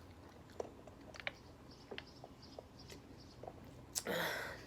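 A person chewing food, with scattered small mouth clicks and crunches. A louder short noise comes near the end.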